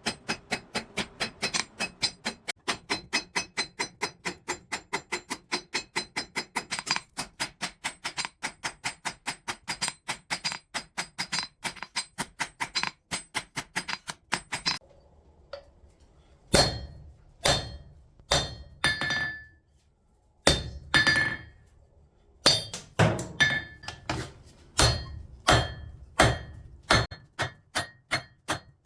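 Hammer blows forging steel on an anvil: a fast, even run of about four or five strikes a second that stops about fifteen seconds in. After a short pause come slower, separate strikes, some leaving a bright metallic ring.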